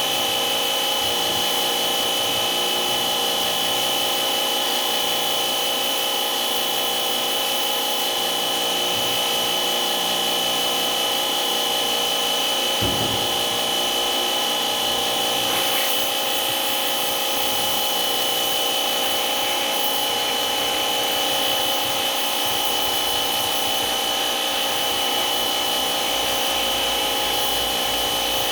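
A motor-driven machine running steadily for the whole stretch, with a constant high whine and hiss. A brief low knock comes about halfway through.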